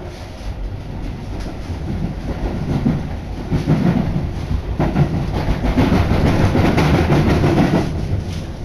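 Seibu Shinjuku Line commuter train running, heard from inside the car: a rumble of wheels on the track with quick clattering clicks. It grows louder about two seconds in and eases off near the end.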